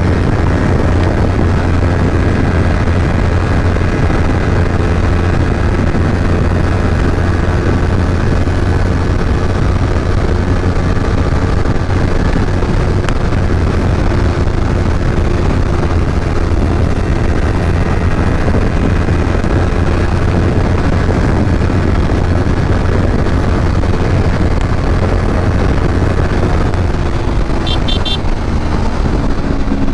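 Kawasaki Ninja 250 parallel-twin engine and exhaust running steadily while riding at an even speed, with rushing wind. A brief series of short high ticks comes near the end.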